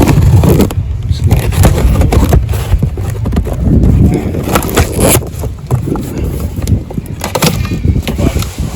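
Cardboard shipping box being opened and its contents handled: irregular scrapes, rustles and knocks over a low rumble.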